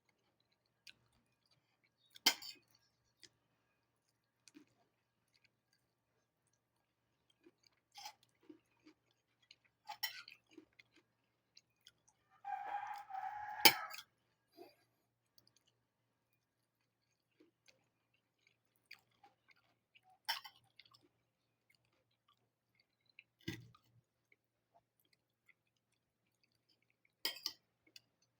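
A rooster pecking at egg and onion from a dish: scattered sharp pecks against the dish, with a short call from the bird about halfway through.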